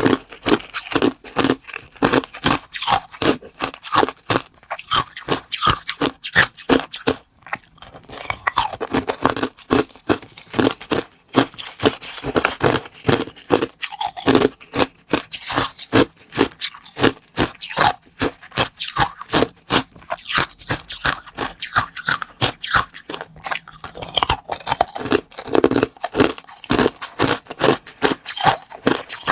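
Close-miked eating: a steady run of crunchy bites and chewing, one sharp crunch after another.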